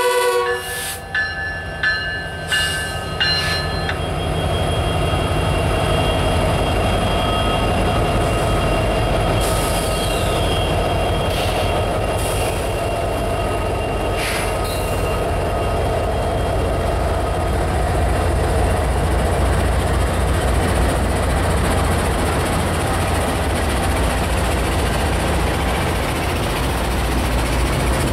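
Diesel freight train passing close by: the lead locomotive's multi-note horn cuts off at the start, with a few shorter horn notes over the first few seconds. The locomotives' engines and wheels then rumble steadily past, followed by loaded covered hopper cars rolling by with some faint wheel squeal.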